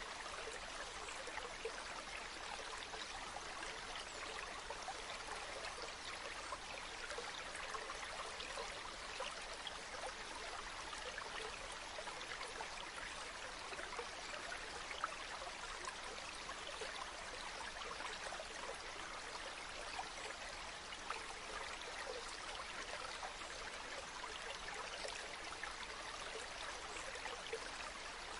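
River water flowing steadily, a constant rush with fine trickling and splashing throughout.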